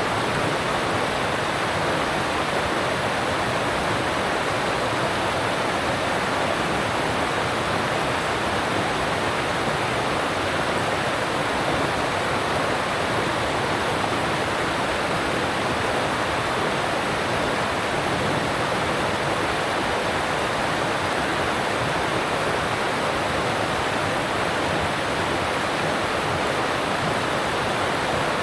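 Alpine mountain stream rushing over rocks: a steady, even rush of fast-flowing water.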